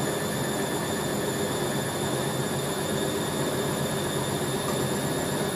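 Hoover A3060 Electronic 1100 washing machine spinning a towel load: a steady hum of motor and drum with a constant whine.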